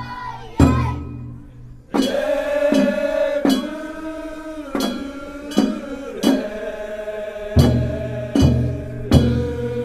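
A traditional Japanese boat song (funauta): voices sing long held notes in unison over sharp, regular percussion strikes, some of them deep drum beats. The singing drops away briefly and comes back in about two seconds in.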